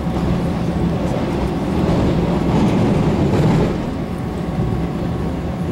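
Running sound of a Taiwan Railway EMU700 electric commuter train heard inside the passenger car: a steady rumble of wheels on rail with a faint motor hum. It swells louder about two seconds in and eases off a little before the four-second mark.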